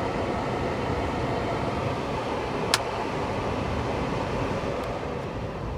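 Steady road and engine noise heard inside a moving car's cabin, with one sharp click about three seconds in.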